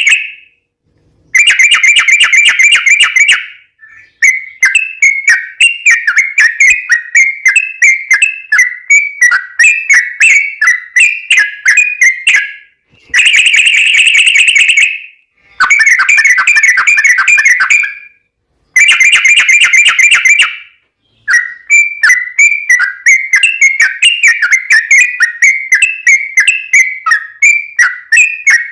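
Yellow-vented bulbul (trucukan) song played loud as a lure recording. Long, fast rattling phrases alternate with runs of quick chirping notes, several a second, in the long rapid-fire 'ropel' style.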